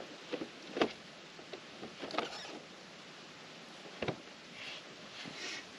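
A few scattered knocks and short rustles from objects being handled; the sharpest knocks come just under a second in and about four seconds in.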